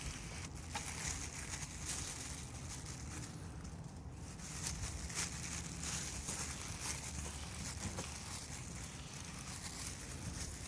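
A cloth wiping aluminium polish off a plastic headlight lens: irregular scratchy rubbing and rustling, over a low steady rumble.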